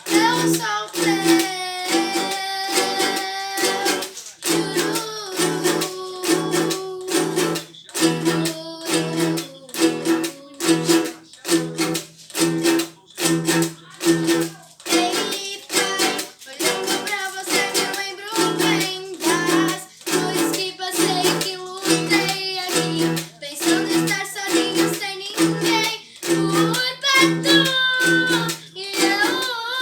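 A girl's voice singing a worship song, accompanied by a steadily strummed acoustic string instrument.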